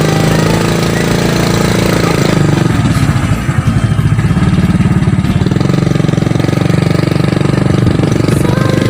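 A small engine running steadily with a rapid, even firing pulse.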